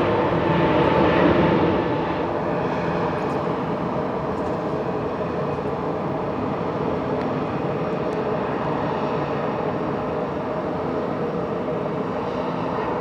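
Jet airliner engines running steadily: a broad rumble with several steady hum tones, a little louder for the first two seconds.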